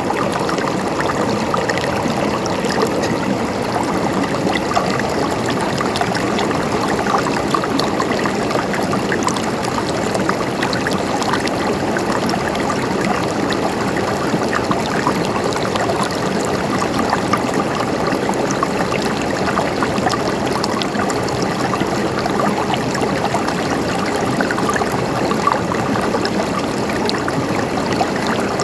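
Flowing water gurgling steadily, an even, continuous rush with no pauses.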